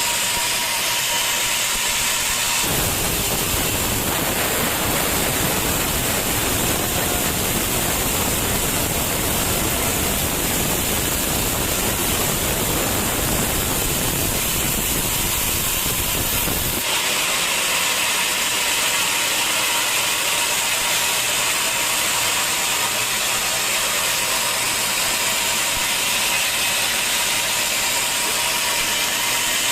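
Sawmill saw running with a steady high hiss and a faint whine; from about three to seventeen seconds in the noise fills out lower and heavier as the blade cuts through teak wood.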